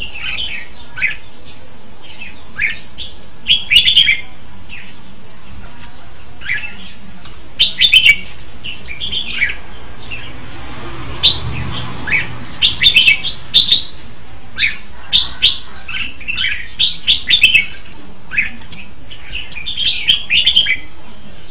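Red-whiskered bulbul singing: short phrases of quick, bubbly whistled notes, repeated every few seconds, over a steady hiss.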